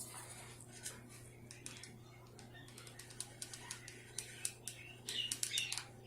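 Faint scattered clicks and light rustling from hands working small craft materials, ribbon and decoration being fitted onto a small wooden birdhouse. The clicks grow busier toward the end, over a steady low hum.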